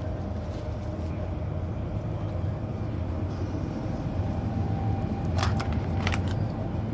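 Honda Shadow 600 V-twin engine running steadily from the rider's position. Several short, sharp clicks or squeaks cut in over it in the second half.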